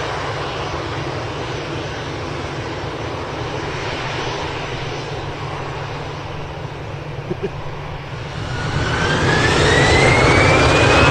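Jet aircraft engine noise, a steady rumble. About eight seconds in, a whine starts to rise in pitch and the noise grows louder.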